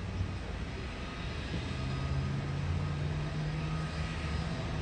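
Double-deck electric suburban train approaching along the line: a low rumble, with a steady low hum that sets in about two seconds in.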